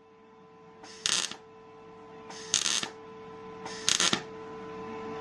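Electric welder laying short welds on a motorcycle frame: three brief bursts of arc noise, each under half a second, about a second and a half apart, over a steady hum.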